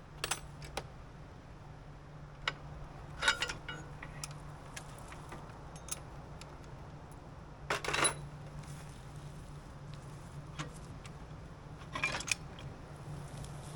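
Metal clinks and clanks of tractor hitch hardware being handled while changing plows on the three-point hitch: a few sharp knocks, the loudest about 3, 8 and 12 seconds in, over a steady low hum.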